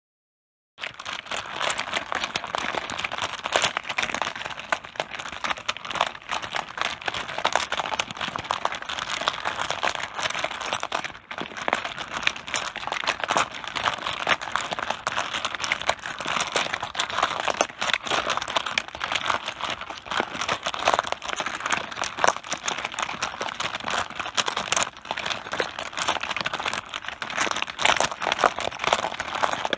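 Mahjong tiles clattering on a table top, many tiles clicking against each other in a dense, continuous clatter that starts about a second in.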